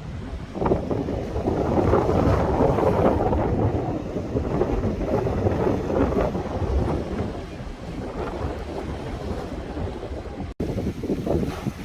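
Strong wind buffeting the microphone, a gusting low rumble and rush that swells about a second in, with a brief cut to silence about ten and a half seconds in.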